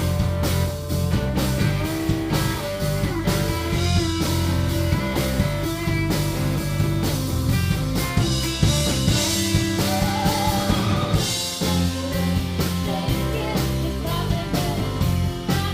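Live rock band playing an instrumental passage: electric guitar over a steady bass line and drum kit, with a bending lead note a little past the middle.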